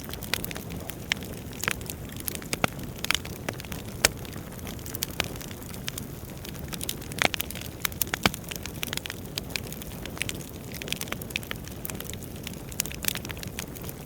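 Wood fire burning in a fireplace: a steady low rumble of flames with frequent, irregular crackles and pops from the burning logs, a few of them sharper and louder.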